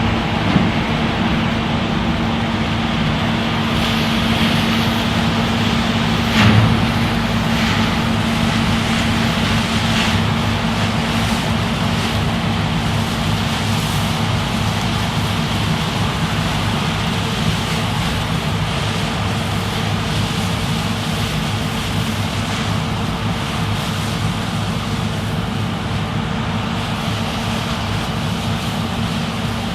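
New Holland CX 6.80 combine harvester running steadily while picking up grass swaths: a constant engine and machinery drone with a steady hum. A brief thump comes about six and a half seconds in.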